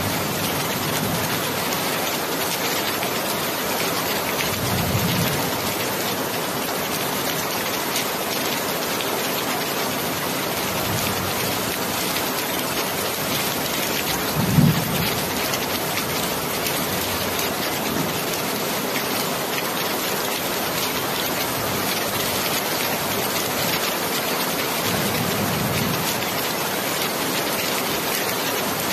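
Steady rain falling, an even hiss of drops on surfaces. A few brief low thumps break through it, the loudest about halfway.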